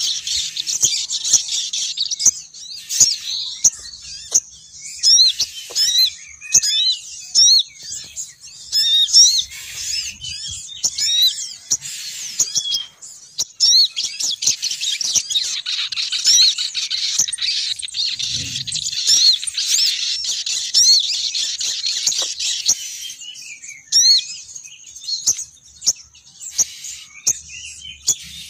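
Lure call of a female sogon bird: a dense, high twittering of many quick rising and falling chirps, with no let-up.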